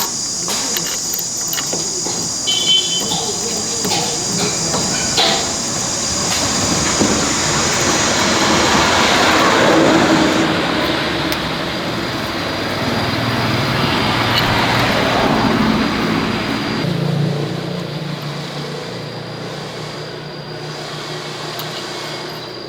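A motor vehicle's engine running as it moves, swelling louder about ten seconds in and again around fifteen seconds, then settling into a steadier, lower hum. Insects chirp in the first half.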